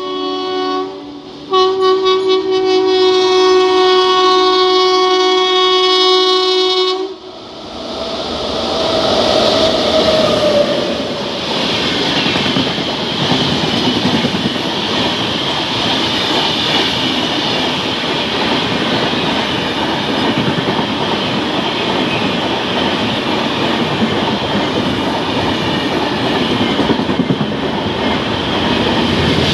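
Indian Railways train horn: a short blast, then a long blast of about five and a half seconds. The train then runs past at speed with a steady rush of wheel and rail noise and clickety-clack over the rail joints.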